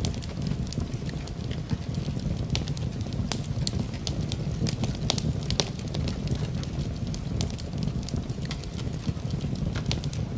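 Wood fire crackling in a fireplace, irregular sharp pops and snaps over a steady low rumble, with rain falling.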